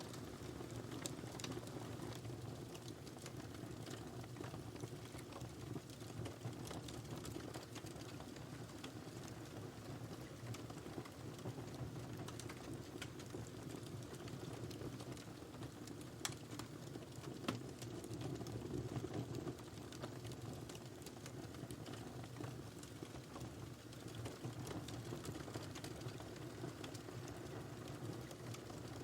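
Wood fire burning in a fireplace: a steady low rumble of flames with scattered crackles and pops, two louder pops a little past the middle.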